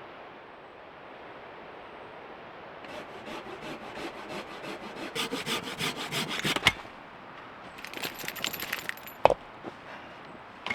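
Hand saw cutting through a firewood log with quick back-and-forth strokes, starting about three seconds in. After a short pause there is a second run of strokes, then a single sharp knock.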